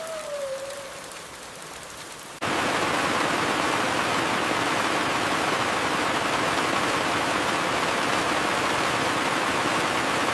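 Steady rain hiss with a faint falling whistle in the first second. About two seconds in it jumps abruptly to a much louder, even downpour hiss, which holds steady.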